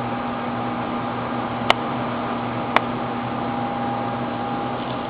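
Steady mechanical hum over a hiss, with two short clicks about two and three seconds in.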